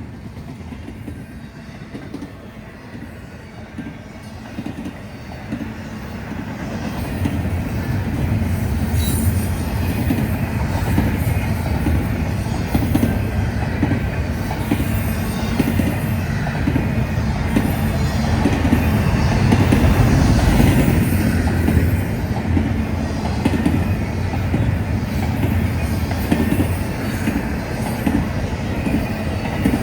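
CSX intermodal freight train's cars rolling past, wheels clacking over the rail joints in a steady rumble that grows louder about seven seconds in and stays loud.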